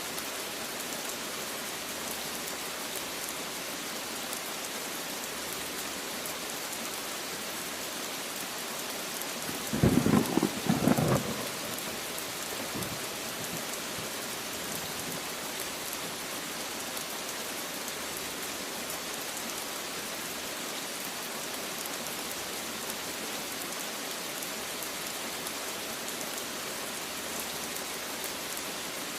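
Steady rain falling, with a sudden loud burst of thunder in two quick pulses about ten seconds in, lasting about a second and a half.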